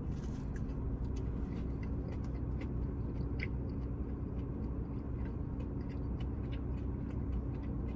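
Steady hum of a room air conditioner, with a constant low tone, under soft chewing and small mouth clicks.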